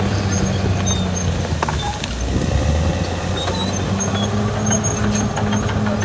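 Caterpillar D6R XL bulldozer's diesel engine running steadily under work, its note dipping briefly about two seconds in, with short high squeaks and clicks over it.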